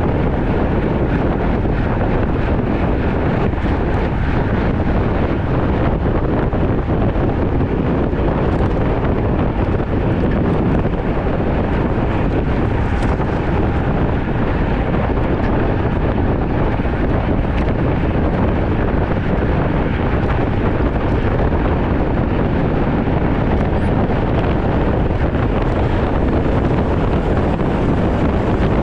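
Steady wind rush buffeting the microphone from riding a road bike at speed.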